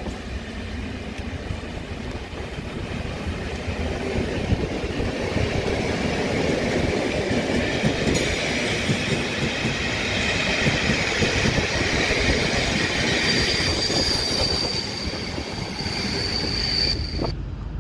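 Network Rail test train with class 73 locomotives passing, its coach wheels clicking over rail joints and squealing on the curve. The noise grows louder over the first few seconds, and a high steady squeal rises out of it in the later part.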